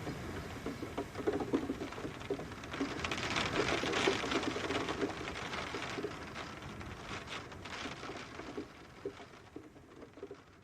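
Rain falling outside a window, with a steady hiss and many irregular drops tapping close by. It swells in the middle and fades away near the end.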